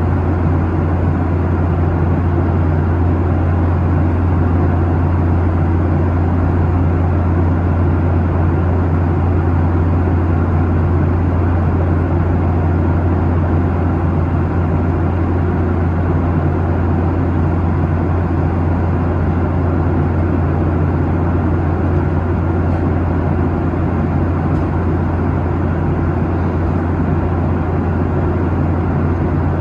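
Steady cabin noise of a Boeing 737-800 at cruise: a constant drone of the engines and rushing air with a strong low hum, unchanging throughout.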